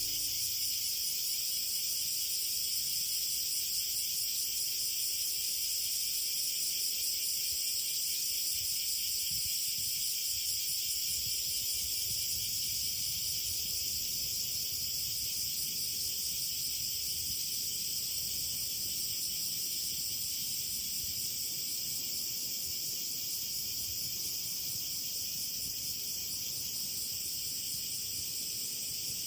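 Chorus of insects chirring steadily and continuously, many fine shrill pulses layered at several high pitches.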